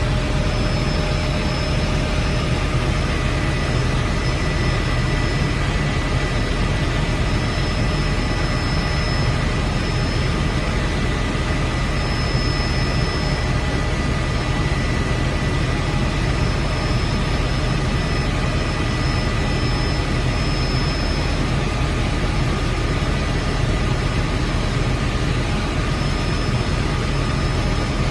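Helicopter running steadily: a constant low drone with a few thin high whines above it.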